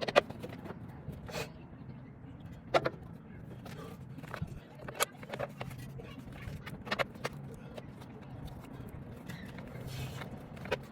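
Scattered sharp clicks, knocks and scrapes of hands and tools working at a semi truck's battery box while the new batteries are fitted, over a steady low hum.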